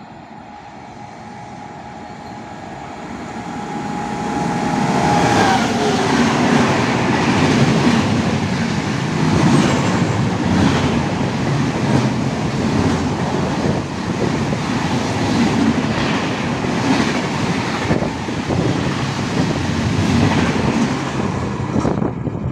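Indian express train approaching at speed and passing close by. Its whine drops in pitch as the front goes past about five seconds in, then the coaches' wheels clatter rhythmically over the rail joints.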